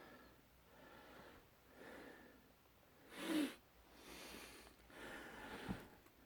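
A person breathing close to the microphone, soft breaths roughly once a second, with one louder, sharper breath about three seconds in.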